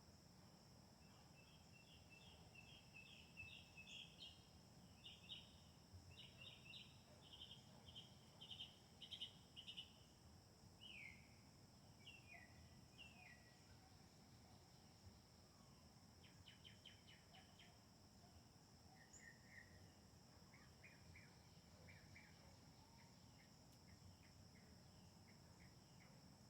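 Faint songbird chirps: quick runs of high chirps, a few down-slurred whistles around the middle, then softer chips. Underneath is a steady high-pitched drone, like insects.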